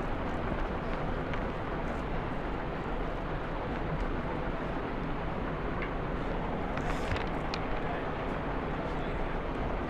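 Steady rushing background noise with a few faint clicks from someone eating.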